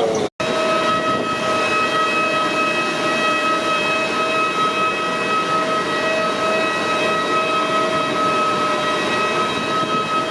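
Airbus A320neo cabin noise in flight: a steady rush of air and engine noise with a constant high whine and several overtones running through it.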